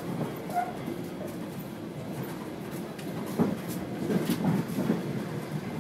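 Moving passenger train heard from inside the carriage: a steady rumble with rattles and irregular knocks from the running gear. A run of louder knocks comes a little past halfway.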